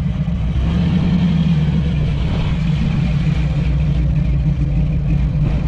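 A hot rod's big engine idling loudly and steadily close by.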